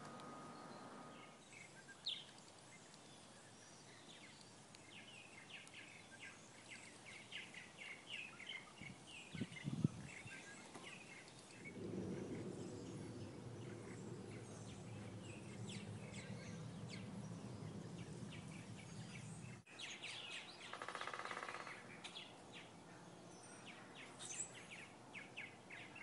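Small songbirds chirping in many short, quick calls, faint over garden background noise, with a steady low rumble for several seconds in the middle.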